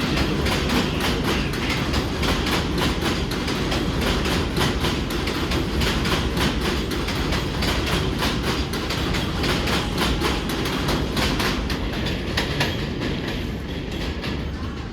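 New York City subway train running on the tracks, its wheels clicking over rail joints in a rapid, even rhythm of several clicks a second over a steady rumble. The clicking thins and the sound eases off near the end.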